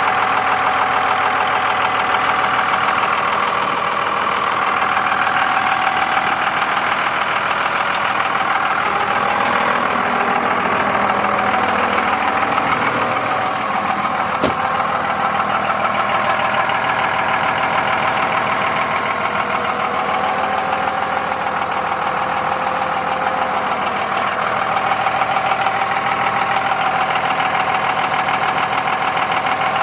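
A 2002 Ram's 5.9-litre Cummins inline-six turbodiesel idling steadily, with a fast, even diesel clatter. A single sharp click sounds about halfway through.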